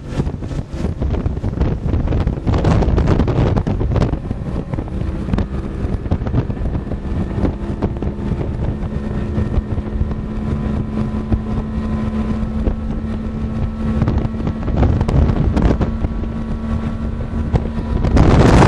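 A 90 hp Yamaha two-stroke outboard running a boat under way, its note holding steady from about a third of the way in, under heavy wind buffeting on the microphone that grows louder near the end.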